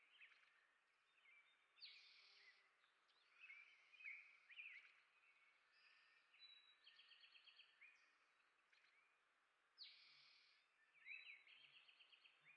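Faint songbirds chirping and calling over each other. Short calls mix with quick runs of repeated high notes, and two harsh, scratchy bursts come about two seconds in and near ten seconds.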